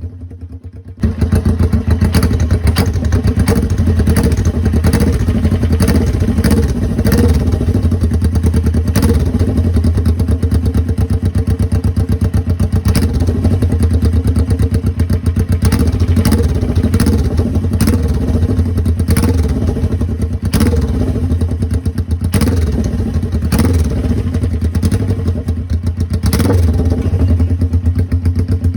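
Suzuki GS400's air-cooled parallel-twin engine running steadily through straight-piped exhaust, loud, with short sharp clicks now and then. It comes in at full level about a second in, after a short dip.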